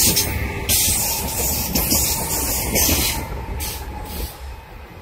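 Electric multiple-unit passenger train running past close by, a low rumble overlaid with several bursts of hiss that die down near the end.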